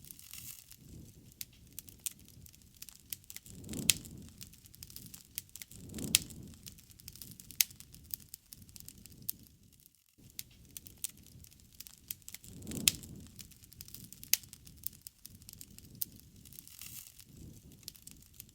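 Wood fire crackling: irregular sharp pops and snaps over a low rumble of flame that swells a few times, dropping out briefly about ten seconds in.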